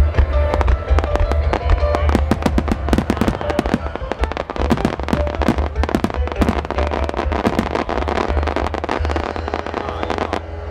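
Fireworks shells bursting in a rapid volley, dozens of sharp reports and crackles in quick succession, thickest through the middle, over music played through loudspeakers.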